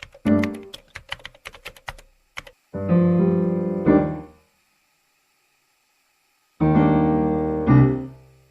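Piano music: a quick run of short clicking taps in the first two seconds, then two long held piano chords a few seconds apart.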